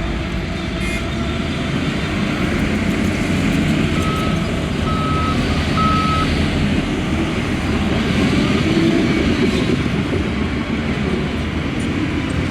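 Heavy diesel construction machinery running steadily, with a reversing alarm beeping three times, evenly spaced, about four seconds in.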